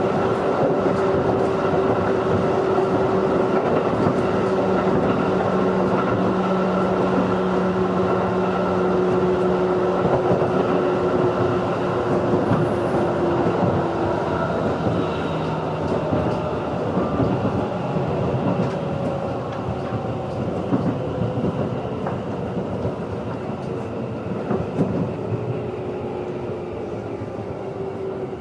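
A JR 211 series electric multiple unit's running noise, heard from inside the car: a steady whine from the motors and gears over rumbling wheels and clicks from the rail joints. From about halfway the whine slowly falls in pitch and the noise eases a little as the train slows.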